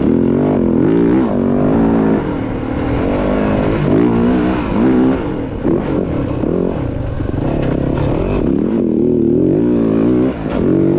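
Dirt bike engine revving up and down again and again, its pitch rising and falling with the throttle.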